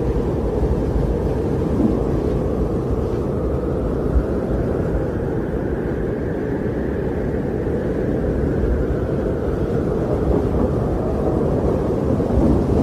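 Winter wind blowing in a deep, steady rush, with one gust swelling about halfway through and dying back.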